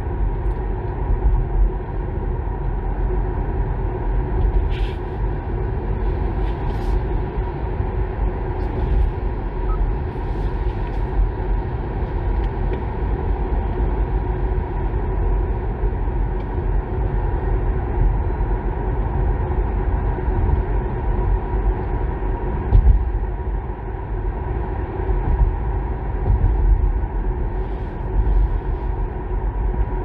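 Kia Niro EV driving at about 60 km/h: steady road and tyre rumble with a faint constant hum, and a few faint clicks.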